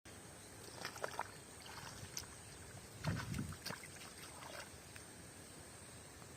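Water sloshing and splashing in shallow water as hands work through it, in scattered small splashes with one louder slosh about three seconds in.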